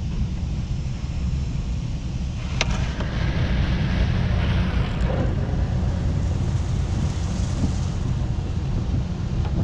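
Automatic car wash tunnel equipment running: a steady low rumble with a rushing hiss of spray and brushes that swells for a few seconds, and a single sharp knock about two and a half seconds in.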